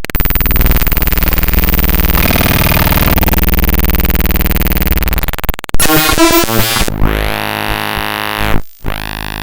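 Raw bytes of a Windows program file played straight as audio: a harsh, steady buzz of many fixed tones for about five and a half seconds, then a stretch of choppy, broken tones, a brief dropout near the end, and a steady buzz again.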